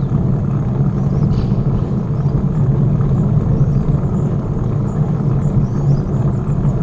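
Steady low rumble of wind on the microphone and tyre noise from a moving bicycle, with faint high chirps in the second half.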